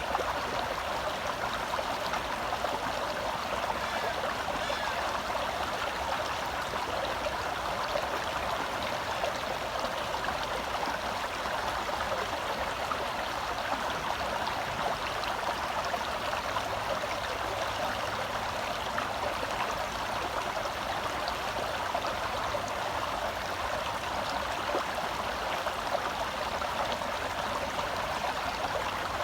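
Small forest stream flowing and gurgling over rocks close by, a steady even rush of water.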